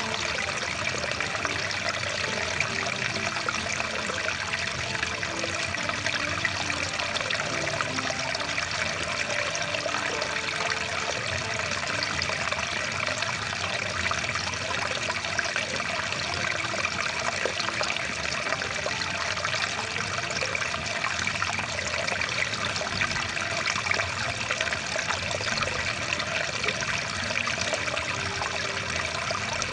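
Rushing water of a stream flowing steadily and continuously.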